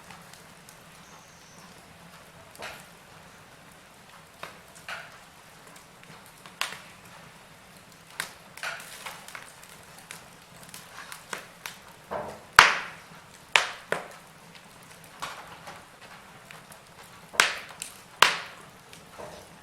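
Wood fire in a fireplace crackling: irregular sharp pops and snaps over a faint steady hiss, with the loudest pops about twelve and a half seconds in and a close pair near the end.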